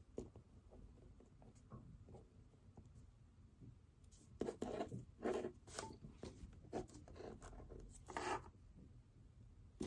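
Pen writing on paper: short scratchy strokes with light taps, in a louder run of strokes about halfway through and another near the end.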